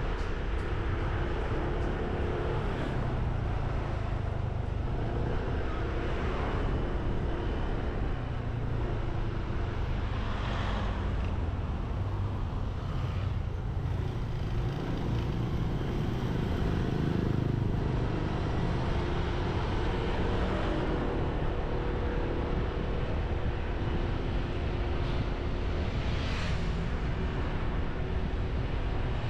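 Motorbike engine running steadily on the move, under heavy wind rush on the microphone, with a few brief swells of noise along the way.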